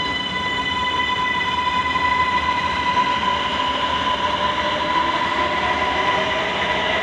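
Ankara Metro train running in a subway station: a steady high whine over dense rumbling noise, with lower tones joining near the end.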